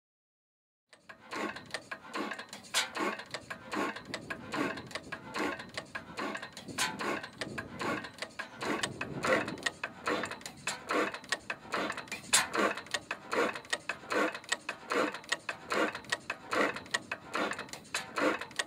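A circa-1907 Blackstone portable four-stroke hot-bulb kerosene engine running, with a rhythmic mechanical clatter of about two beats a second. The sound starts about a second in.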